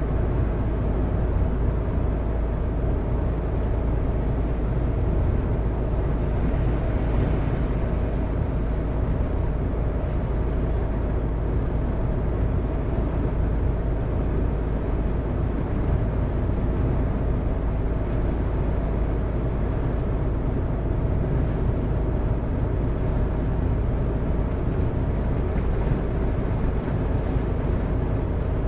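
A car driving at steady speed: continuous engine and road noise with a deep rumble.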